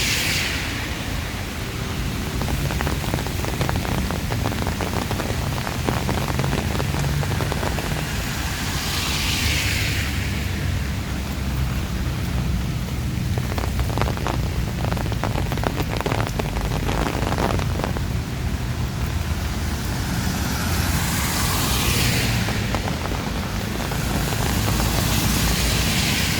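Heavy rain pouring steadily, with a low rumble of strong wind. Vehicles swish past on the wet road four times.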